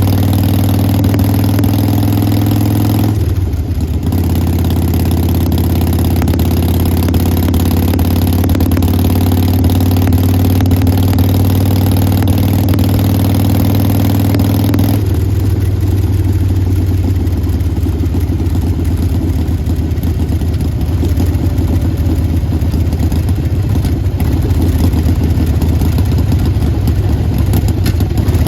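Harley-Davidson Sportster Forty-Eight XL1200X's air-cooled V-twin running through a Vance & Hines Big Radius exhaust, idling steadily. The tone changes about halfway through.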